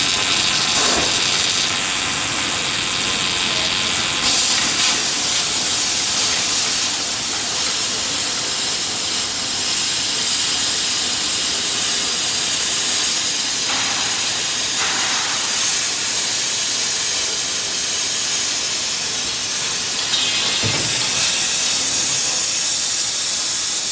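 A hot-air dryer running: a steady, loud hiss of rushing air.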